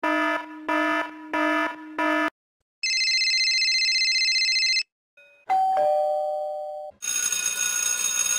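A quick run of separate electronic sound effects: four short identical beeps, then a steady buzzer tone held for about two seconds, then a falling two-note ding-dong chime like a doorbell, and near the end a bright, noisy ringing.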